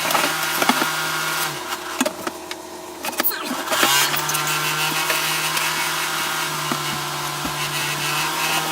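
Battery-powered DeWalt power tool motor running at a steady pitch, stopping about a second and a half in. A few knocks follow, and the motor starts again about four seconds in and keeps running.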